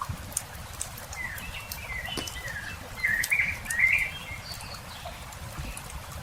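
Campfire crackling with scattered pops, while small birds chirp and twitter, busiest and loudest a few seconds in.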